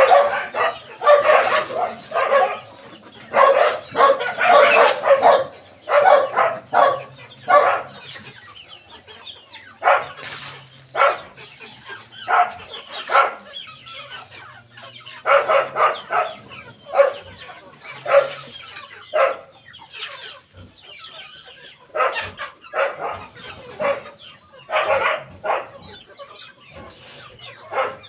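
Chickens clucking: many short, repeated calls, densest and loudest over the first several seconds, then coming in sparser bursts.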